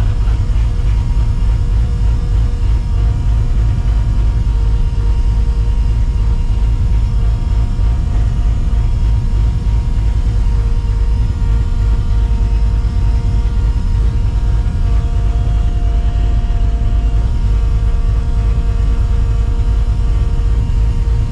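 Cammed, Procharger-supercharged 5.4 L iron-block V8 of a 1999 Mustang GT running steadily at low speed, with no revving: a deep, even rumble with a few steady higher tones over it.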